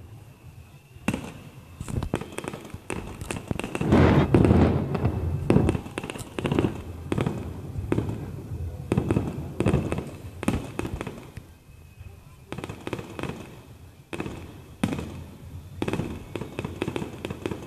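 Fireworks display: aerial shells bursting in a rapid, irregular string of bangs and crackling reports, with the loudest, densest cluster about four seconds in.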